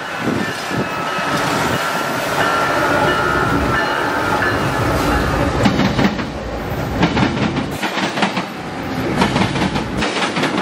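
Several Union Pacific diesel locomotives at the head of a freight train passing close by, their engines running with a deep rumble and a high steady whine over the first few seconds. From about halfway through, the steel wheels click rhythmically over the rail joints as the units go by.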